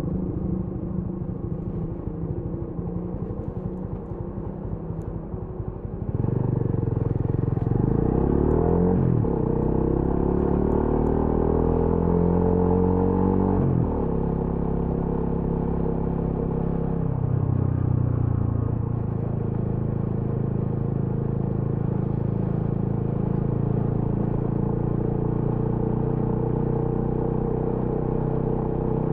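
TVS Apache RTR 200 4V's single-cylinder engine and exhaust. It putters low for about six seconds, then gets louder and pulls away, the revs climbing and dropping through a few gear changes. It then settles into a steady cruise.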